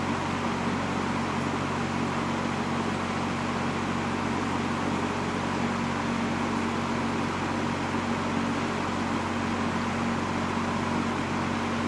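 1960s Superlectric 20-inch box fan, model 2067S, running steadily: an even rush of air over a constant motor hum.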